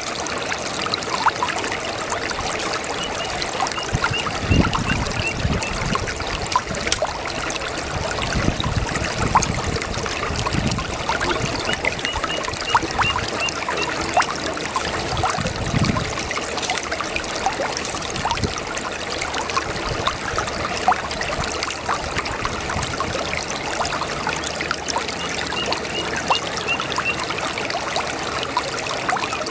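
A small brook babbling and trickling steadily over stones, with deeper gurgles now and then. A faint, high run of rapid chirps comes three times.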